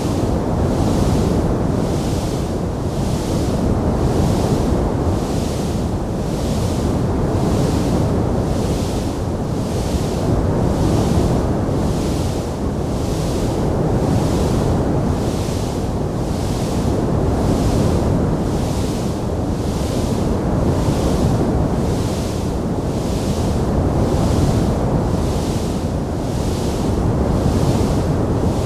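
Steady low rushing noise with a soft upper hiss swelling and fading evenly about once a second, without distinct crackles or pops.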